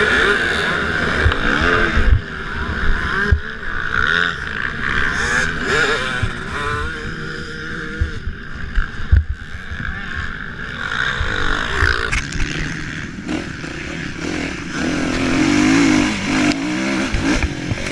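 Several motocross bikes racing, their engines revving up and dropping off as they ride the track. A stronger engine note rises and falls near the end.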